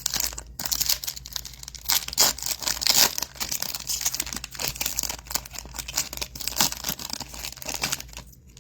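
Trading-card pack wrapper crinkling and tearing as a pack is opened by hand: a steady run of irregular crackles and rustles.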